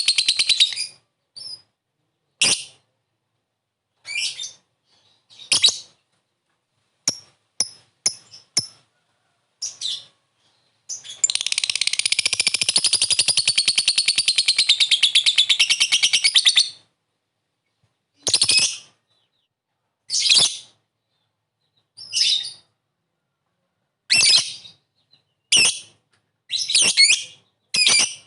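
Lovebird calling: short, sharp high-pitched chirps and brief chatters at irregular gaps, with one long rapid chattering trill of about six seconds midway, the 'ngekek' call that keepers train for.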